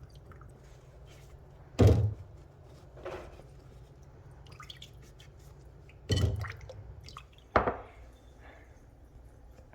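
Kitchen prep sounds: three dull thunks of things being set or knocked down on a counter, about two seconds in, about six seconds in and a sharper one a second and a half later, with a fainter knock between them.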